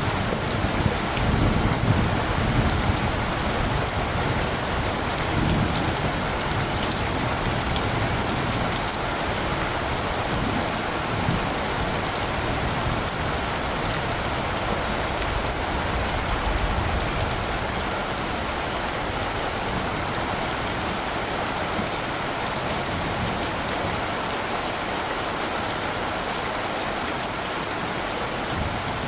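Steady rain falling, with fine patter on top. A low rumble is heard during the first several seconds and then fades away.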